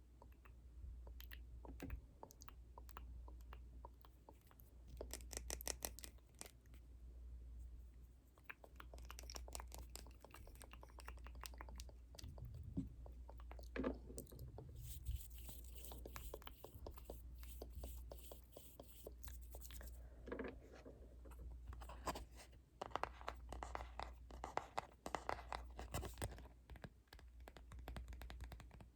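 Close-miked ASMR trigger sounds: runs of quick, sharp clicks and taps alternating with scratchy, rustling strokes, over a faint steady low hum.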